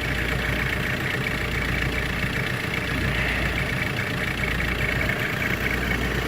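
Audi A4 B6 1.9 TDI four-cylinder diesel idling steadily with a diesel clatter, warming up shortly after a cold start in freezing weather.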